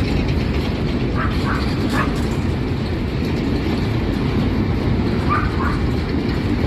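An empty freight train rolling past with a loud, steady rumble. A few short, faint higher-pitched sounds come through over it, about a second in and again near the end.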